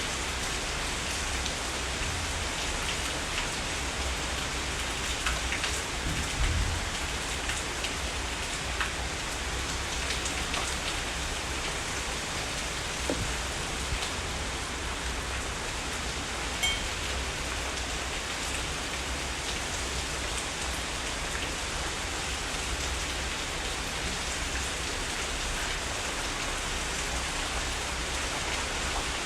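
Heavy rain falling steadily, a continuous hiss of rain on surfaces with scattered louder individual drop hits. There is a brief low swell about six seconds in.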